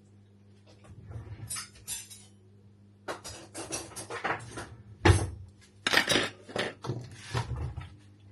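A spoon knocking and scraping against a bowl and a yogurt tub as Greek yogurt is spooned into crumbled cheese: a run of clinks and taps, the sharpest about five seconds in.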